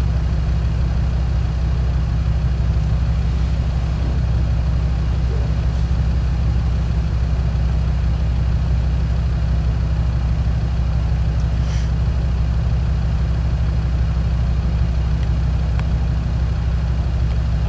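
Land Rover Discovery 2's TD5 five-cylinder diesel engine idling, a steady low drone that does not change.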